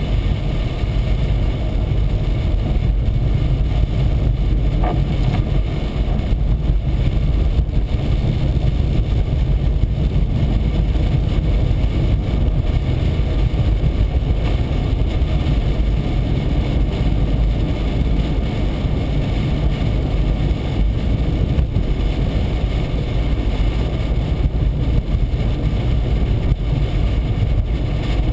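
Steady road and engine noise of a car driving on a highway, a deep even rumble heard from inside the cabin.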